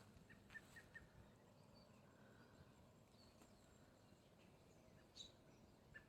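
Near silence outdoors, with a few faint, short bird chirps now and then.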